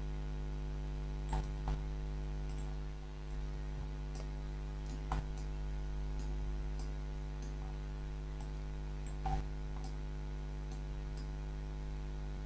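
Scattered faint clicks from a computer mouse and keyboard being used, a few seconds apart, over a steady electrical hum.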